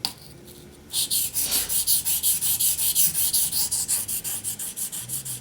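Knife blade being sharpened on a waterstone: a short click at the start, then from about a second in, fast, even back-and-forth scraping strokes of about nine a second.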